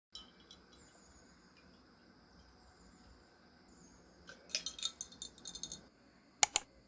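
Light clinks and taps of small hard objects being handled, then two sharp clicks in quick succession near the end, over a quiet room with a faint high whine.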